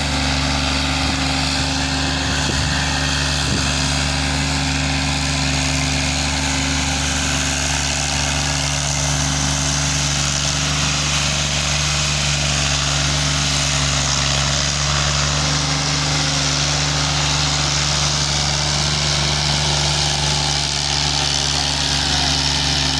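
Fiat 480 tractor's three-cylinder diesel engine running steadily at a constant speed.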